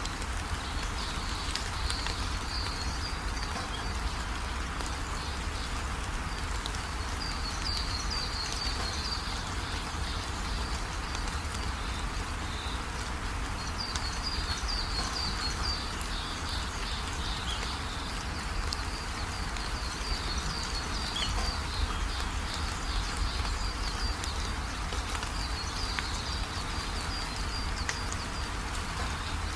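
Steady rainfall with a low rumble underneath, and short runs of high chirping breaking in every few seconds.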